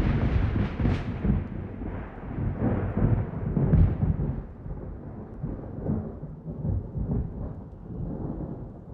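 Thunder rumbling over rain, loudest in the first few seconds and slowly dying away.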